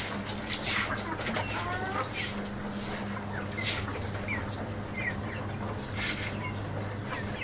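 Chickens clucking, with a few sharper calls, over a steady low hum.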